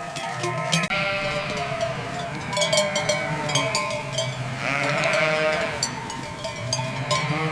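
Cowbells on grazing livestock clanking irregularly, with an animal bleating about five seconds in.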